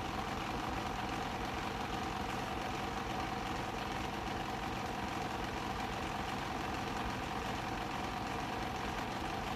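A steady mechanical hum with a few faint steady tones, unchanging throughout.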